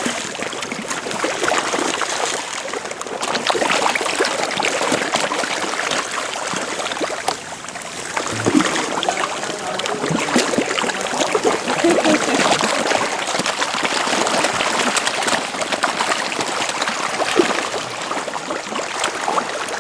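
Water washing and trickling steadily against a moving boat, with many small splashes and gurgles.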